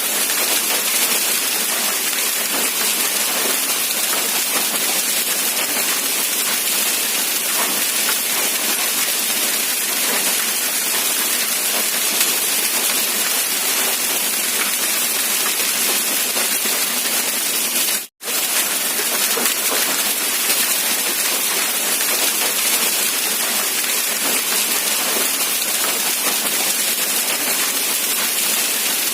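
Steady rain falling, an even, dense hiss with little low end. It cuts out to silence for a split second about two-thirds of the way through, then resumes unchanged.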